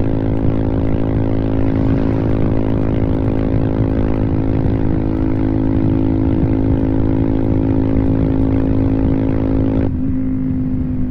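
Royal Enfield Himalayan single-cylinder engine through a full-system Devil Pro Evolution exhaust, held at high, steady revs near top speed (about 140 km/h). About ten seconds in the throttle is rolled off: the roar drops sharply, and then the engine note begins to fall.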